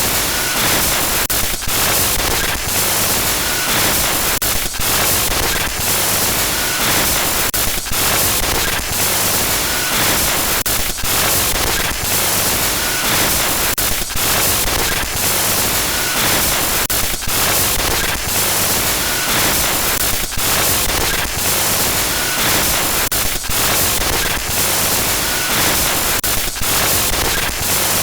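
Loud glitchy static noise: a dense hiss that stutters and drops out briefly every second or so, made as a horror sound effect.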